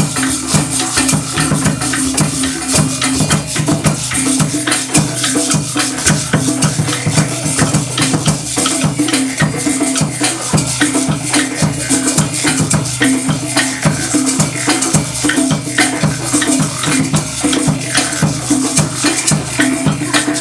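Drum and percussion ensemble playing live, a steady repeating rhythm of drums with rattling shakers over it, without a break.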